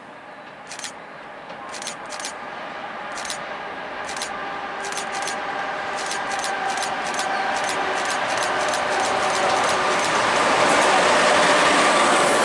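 SNCB class 13 electric locomotive hauling a container freight train approaching, growing steadily louder, with sharp clicks of wheels over rail joints that come faster as it nears.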